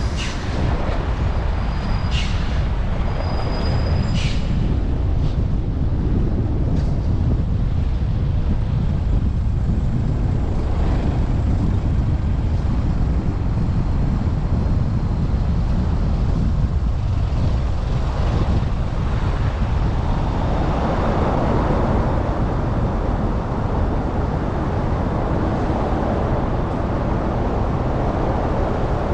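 Steady wind rumble buffeting the microphone of a bike-mounted GoPro while riding, over road and traffic noise. A few brief high squeaks come in the first few seconds.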